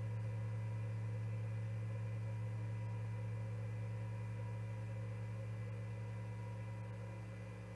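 Steady low electrical hum with a few faint higher whining tones over light hiss, unchanging throughout, with no animal calls or other events.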